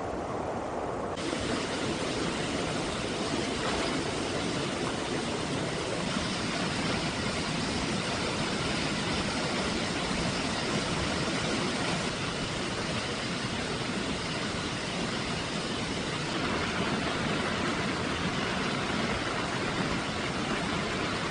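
Steady rushing of water, as from a river in flood, a dense even roar that turns brighter and hissier about a second in.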